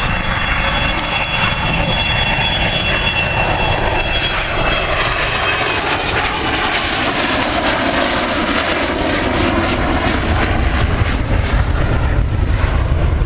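Display aircraft's engines running loud and steady as it flies past, with a high whine that fades out about five seconds in.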